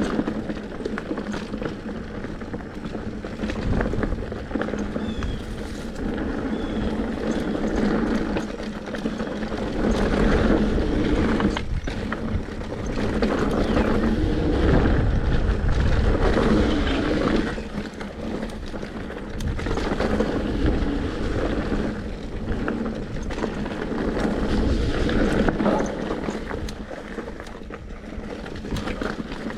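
Mountain bike riding down a wet dirt trail: tyre noise on the dirt with rattles and knocks from the bike over bumps, and wind on the microphone. The loudness rises and falls with the terrain.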